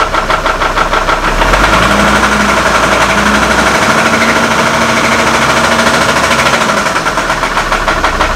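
Hummer H3 engine idling with a regular knocking, which the owner suspects is a bad rod bearing. From about a second and a half in until near the end the run turns steadier and a little louder, and the knock blurs into it.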